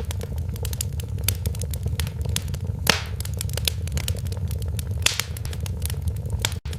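Wood fire in a fireplace crackling, with many sharp pops and snaps over a steady low rumble of the flames; one louder pop about three seconds in. The sound cuts out for a split second just before the end.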